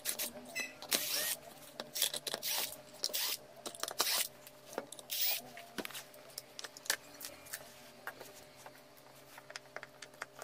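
Clicks, knocks and short scraping noises of hands working the casing of a rechargeable vacuum cleaner apart. The sounds are busy at first and sparser after about six seconds, over a faint steady hum.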